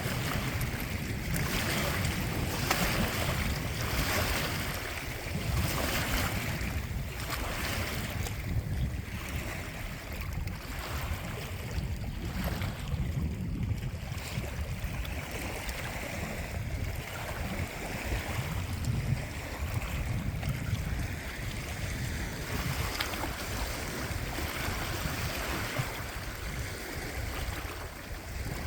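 Wind rumbling on the microphone over water splashing and lapping, the water sound swelling and fading about once a second.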